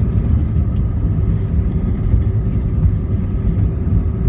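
Steady cabin noise of a jet airliner rolling on the ground after landing: a low rumble with a faint, even engine hum.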